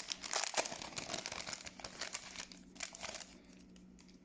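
Foil booster pack wrapper being torn open and crinkled: a dense crackle in the first second that thins out to scattered crinkles and then dies down.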